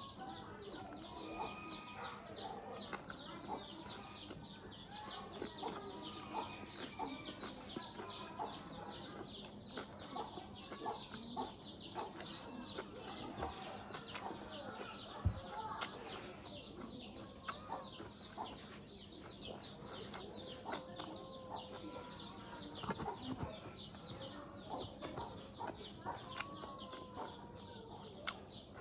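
Chickens clucking, over a steady, rapid run of high-pitched chirps, with scattered small clicks and one sharp knock about halfway through.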